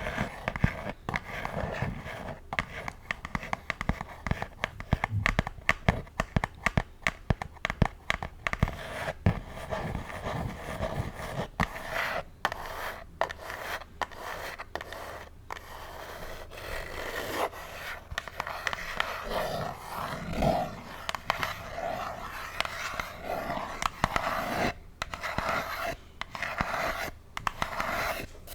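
Long false fingernails scratching and scraping on a pink box close to a bare microphone, with many quick taps mixed in, the taps most frequent in the first half.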